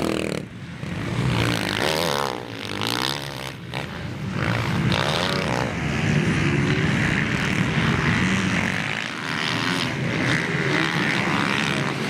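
Motocross dirt-bike engines revving and passing on the track, the pitch climbing and falling several times in the first half, then a steadier drone.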